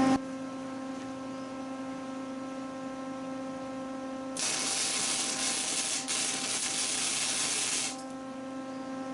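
Lincoln flux-core MIG welder humming steadily. About four and a half seconds in, its arc sizzles for about three and a half seconds, with a brief break near the middle, as a tack weld is laid on the steel.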